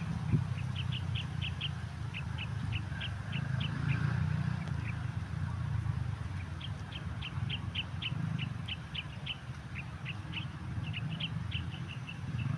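A bird calling in quick runs of short, high chirps, several a second, over a low steady rumble.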